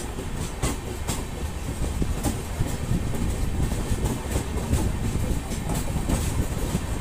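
Udyan Express passenger train running, a steady low rumble with irregular sharp clicks from the wheels passing over rail joints.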